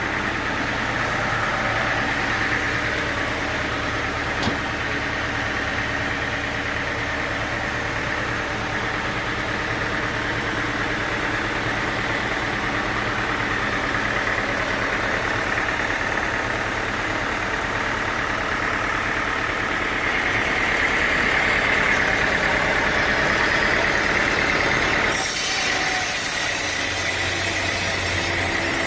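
Sawmill machinery running steadily: a continuous engine drone with a higher hum on top. About 25 seconds in, the sound changes abruptly: the low drone drops away and a brighter hiss takes over.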